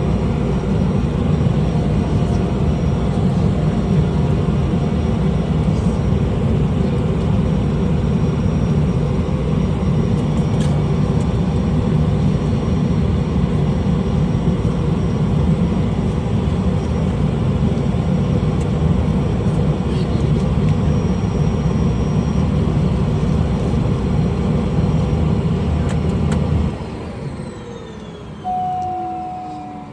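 Single-engine small plane's engine running steadily, then shut down near the end: the noise cuts off abruptly and gives way to falling whines as it spins down, with a short single-pitch beep.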